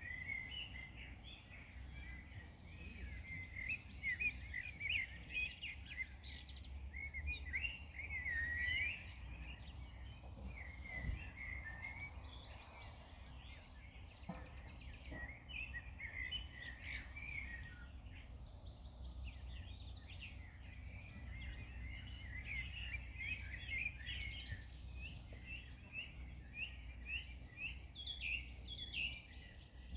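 Several small birds chirping and warbling continuously, over a steady low background rumble.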